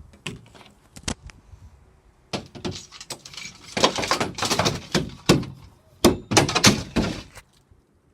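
Smashed cardboard box being crushed and handled: a few sharp knocks, then a long stretch of crunching and crackling cardboard with repeated thuds, ending about seven and a half seconds in.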